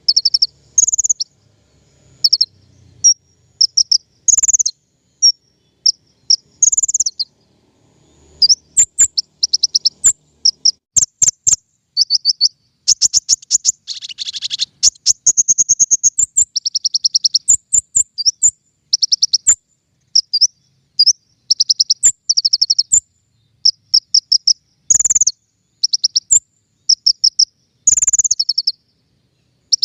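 A small songbird, the bird sold as 'King Konin' in Indonesian bird-keeping, singing loudly and continuously in quick, high trilled phrases with short pauses between them. A longer, denser trill comes about halfway through. This is a recorded lure and training song ('masteran' / 'pancingan').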